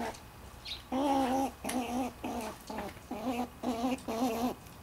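Squirrel calling: a run of about seven short, wavering, moaning calls in quick succession, the first the longest.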